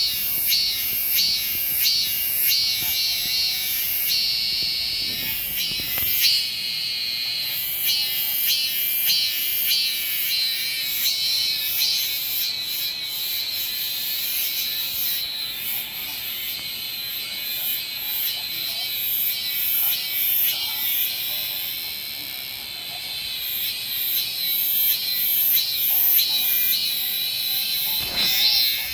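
Hyalessa maculaticollis cicada (참매미) singing loudly and high-pitched. Its call comes as rapid repeated pulses, about two or three a second, which run together into a steadier drone in the middle and break into pulses again near the end.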